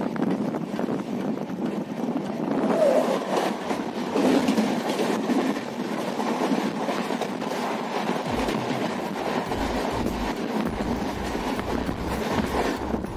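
Rail noise of a moving Indian Railways train heard through the open window, as another train's coaches and locomotive pass close by on the next track. A steady rushing of wheels on track, with heavy low thumping joining in over the second half.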